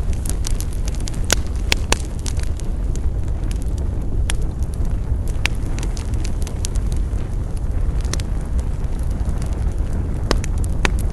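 Wood campfire burning: a steady low rush of flame with sharp crackles and pops scattered throughout, several in quick succession about one to two seconds in.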